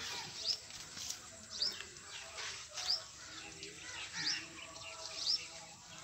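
A small bird chirping over and over: short, high notes that fall in pitch, about one a second.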